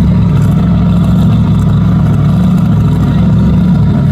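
Big inboard V8 boat engine running loud and steady, a low-pitched engine note with no change in revs.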